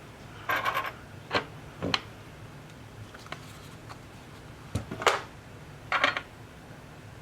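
Short clicks and scrapes of small hand tools and parts being handled during electronics repair work, in about five separate bursts over a low steady hum.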